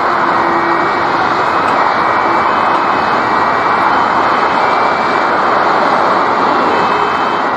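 Jet engine noise from an Airbus A320: a loud, steady rush with faint high whining tones over it.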